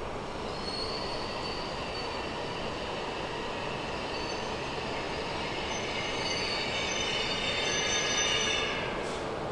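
An E5 series Shinkansen pulls into the platform and slows, with a steady rushing run noise and several high-pitched whining tones. The tones grow louder toward the end, then fade.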